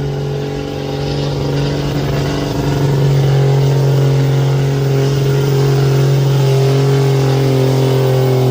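Diesel pickup truck engine held at high, steady revs under heavy load while pulling a weight sled, its pitch stepping up slightly about two and a half seconds in.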